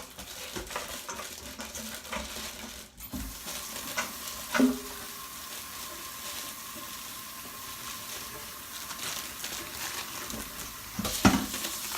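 Kitchen-sink sounds while baby carrots are rinsed: a few knocks and clatters, then a steady hiss of running tap water for several seconds, and a loud clatter near the end.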